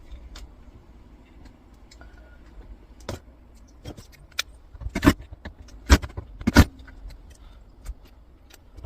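Small metal parts and tools clinking and knocking while an old electricity meter is taken apart by hand: scattered light clicks, with a few louder knocks around the middle.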